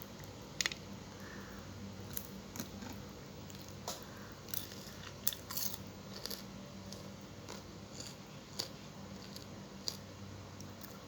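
Eating fried tilapia: chewing and biting, with many short, irregular crunchy clicks over a faint steady low hum.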